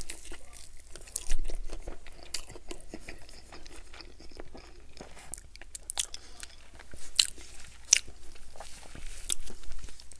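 Close-miked biting and chewing of crispy fried chicken legs, with scattered sharp crunches of the crisp skin; the loudest comes about a second in, another near the eight-second mark.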